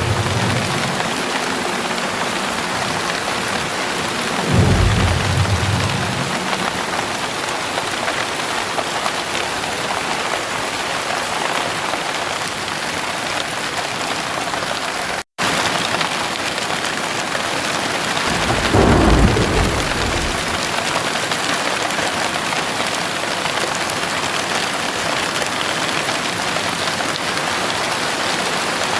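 Heavy rain falling steadily, with two low rolls of thunder: one about five seconds in and one around nineteen seconds in. The sound cuts out for an instant about halfway through.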